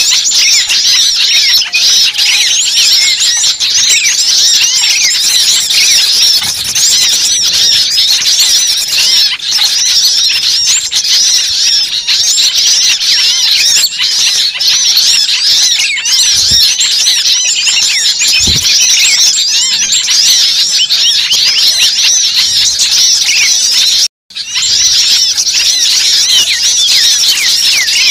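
A dense, noisy chorus of many small songbirds chirping and squeaking rapidly and high-pitched, the agitated calls used on a bird-trapping lure recording. The sound breaks off for a moment about three quarters of the way through, then resumes.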